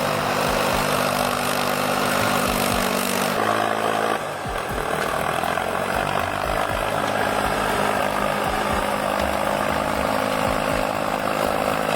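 Valtra A93 tractor's four-cylinder diesel engine running steadily, its pitch shifting once about three and a half seconds in.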